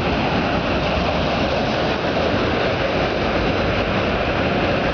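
Empty autorack freight cars rolling past: a steady rumble and rush of steel wheels on rail.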